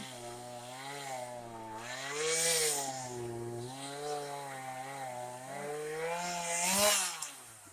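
Gas-and-oil-mix two-stroke chainsaw running under the throttle, its pitch rising and falling repeatedly, with two louder surges, then dropping as it winds down near the end.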